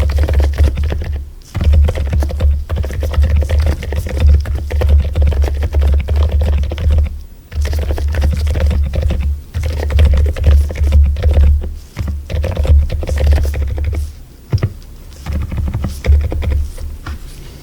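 Continuous fast typing on a mechanical keyboard: a dense stream of key presses, broken by a few short pauses.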